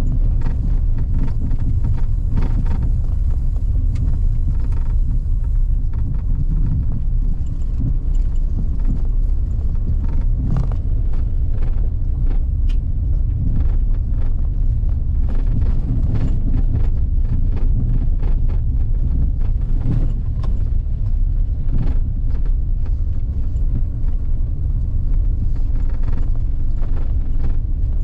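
A vehicle driving along an unpaved forest road: a steady low rumble with scattered knocks and clicks from the rough surface.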